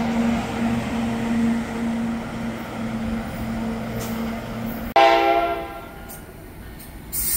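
NJ Transit locomotive-hauled train moving along the platform track with a steady low hum. About five seconds in, a short blast of a train horn starts abruptly and fades within a second, followed by quieter rail rumble.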